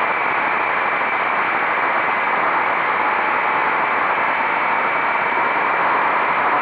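Steady rushing wind and road noise on the camera microphone of a moving motorcycle, with no engine note standing out from it.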